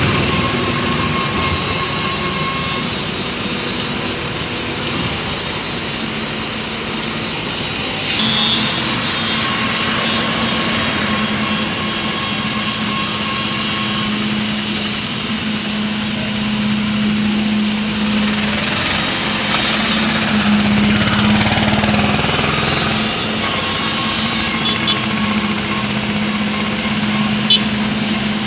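Engine of heavy road construction machinery running steadily, with a constant low hum.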